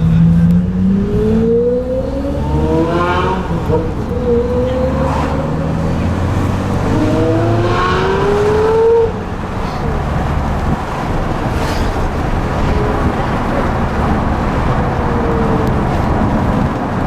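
High-revving car engine accelerating hard twice, its pitch climbing steeply each time. The second run cuts off sharply about nine seconds in, and steady engine and traffic noise follows.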